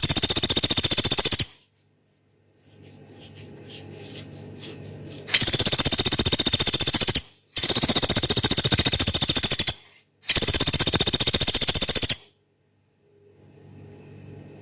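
Pelatuk beras (pygmy woodpecker) giving its long, harsh rattling call, a fast run of high, dry notes, four times in a row with short pauses between.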